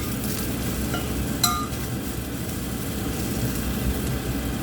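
A metal utensil clinks sharply against a pan once, about one and a half seconds in, with a fainter clink just before, over a steady low rumble of the kitchen.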